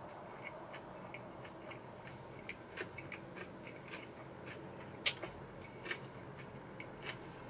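A person chewing a mouthful of food with the mouth closed, close to the microphone: a run of small irregular mouth clicks, the sharpest about five seconds in.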